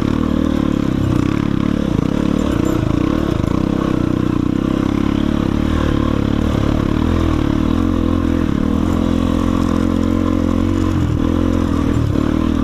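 Single-cylinder enduro motorcycle engine running steadily, its pitch shifting only a little.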